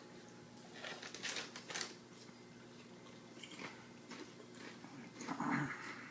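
A person chewing and crunching a hot-sauce-topped chip, with scattered crisp crackles and wet mouth noises, and a louder mouth sound near the end.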